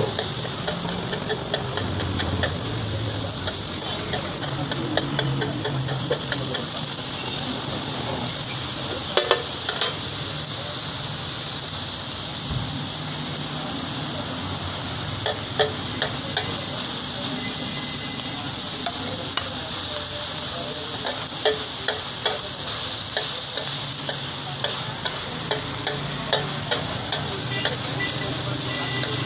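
Minced beef sizzling in oil on a flat tawa griddle, with a metal spatula clacking and scraping against the griddle as it is stirred. The clacks come in quick runs, most of them in the second half.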